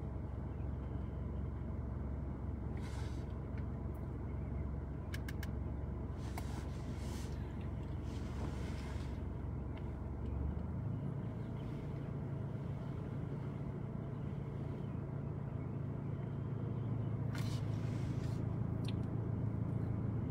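Vehicle engine idling, heard from inside the cabin: a steady low hum that steps up in pitch about halfway through, with a few faint clicks and rustles.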